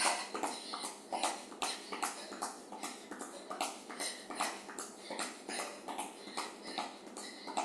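Rhythmic footfalls of running shoes landing on the floor while skipping in place, about two to three light thuds a second.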